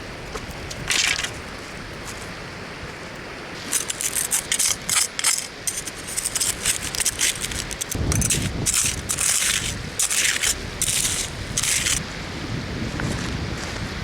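Hard objects clinking and scraping again and again, most thickly from about four seconds in, over a steady rushing background.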